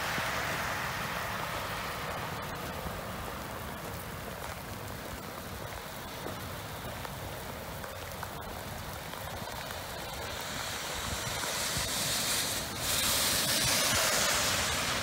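Steady rain falling, a constant hiss. Near the end the hiss of a car's tyres on the wet road swells up.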